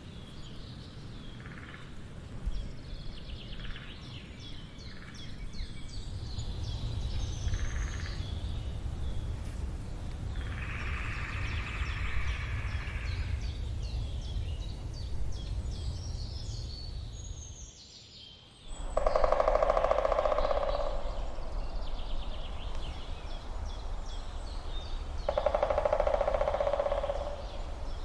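Woodpecker drumming: three bursts of very rapid taps on wood, each about two to three seconds long, the last two louder and lower in pitch than the first. Other birds chirp throughout over a low background rumble, with a brief drop in level about two-thirds of the way through.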